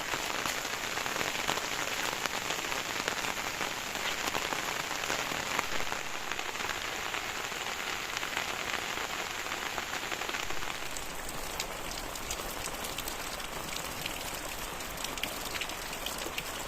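Heavy rain falling: a steady hiss with many close drops ticking through it. The hiss thins a little about eleven seconds in.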